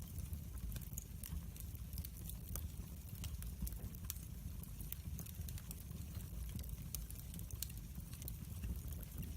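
Wood fire in a fireplace crackling, with many irregular sharp pops and snaps over a low steady rumble of the flames.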